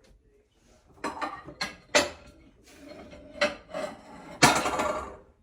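Kitchen dishes clattering as a bowl is handled: a series of sharp knocks and clinks from about a second in, with the longest and loudest clatter near the end.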